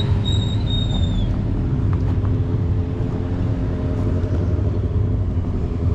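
Car engines rumbling steadily as cars line up and pull in. A high steady tone sounds over them and fades out a little over a second in.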